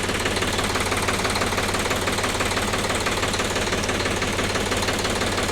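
Tractor diesel engine running steadily, a fast even clatter over a constant low hum.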